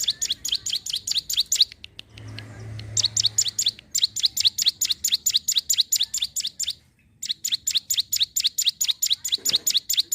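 Ciblek gunung (a prinia) singing in full voice: long runs of fast, sharp, high chirps at about eight a second, broken by short pauses twice.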